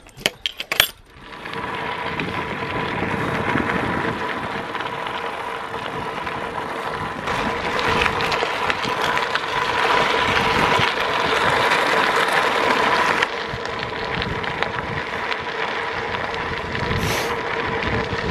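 Riding a bicycle along a road: a steady rush of wind and rolling noise with a steady hum, after a few sharp rattling clicks at the start. The sound shifts abruptly at about seven and thirteen seconds in.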